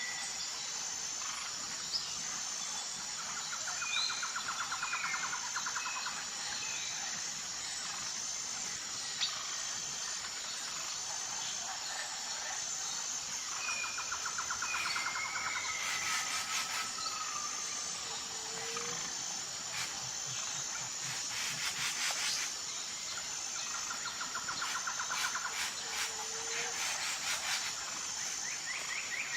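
Outdoor nature ambience: birds chirp and whistle in short calls and repeated trills over a steady, high-pitched insect drone. A few bursts of rapid clicking come about halfway through and near the end.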